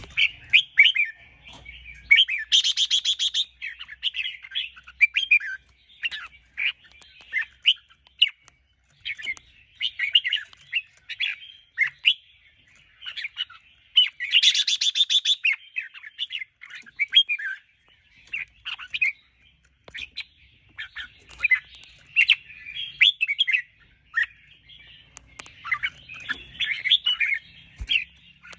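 Red-whiskered bulbul singing: quick runs of bright chirping, whistled phrases with short pauses between them, broken twice by a harsher, buzzing burst, about three seconds in and again about fifteen seconds in.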